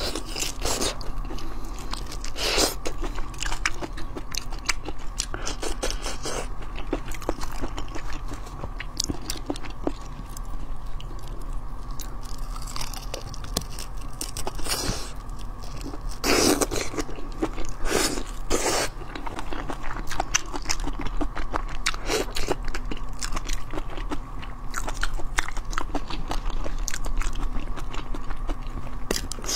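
Close-miked biting and chewing of whole shrimp in a chili marinade, the shells crunching, with many irregular wet clicks and a few louder crunches.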